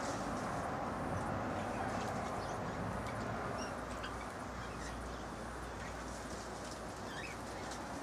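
Birds giving short, high chirps now and then over a steady background hiss.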